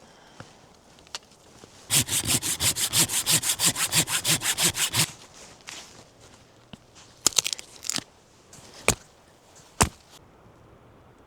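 Hand saw cutting through wood in about three seconds of quick, even strokes, followed by a few sharp knocks.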